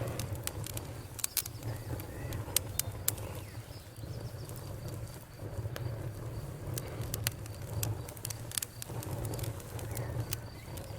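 Campfire crackling, with sharp irregular pops and snaps over a low steady rumble of burning wood.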